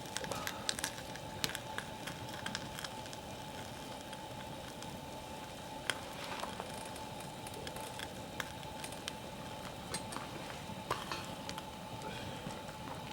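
Wood campfire crackling, with scattered sharp pops and snaps over a steady hiss.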